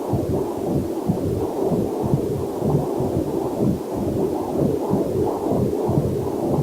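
Pulsing, whooshing heartbeat picked up by a fetal Doppler heart monitor, beating in a quick, even rhythm, with a faint waterfall mixed in underneath.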